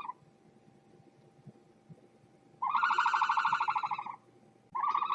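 A loud, buzzing, rattling animal call with a rapid pulse. The end of one call is heard at the start, a full call of about a second and a half comes in midway, and another begins near the end.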